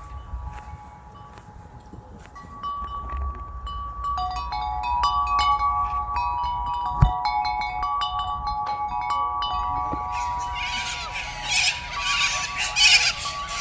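Chimes ringing, many overlapping tones struck one after another and left to ring. About ten seconds in, harsh, raspy calls join them.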